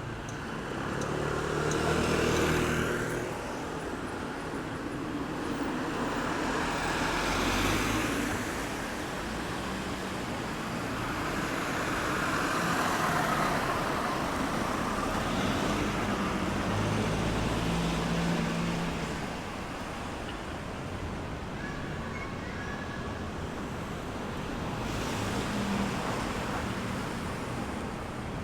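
Road traffic passing: a steady rumble of cars with about five vehicles swelling past one after another.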